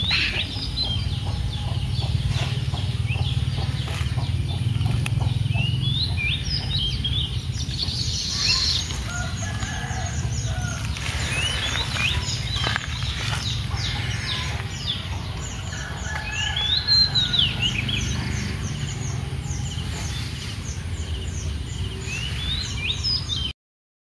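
Birds calling, with many short chirps and twittering calls and one louder call about two-thirds of the way through, over a steady low rumble. The sound cuts off suddenly near the end.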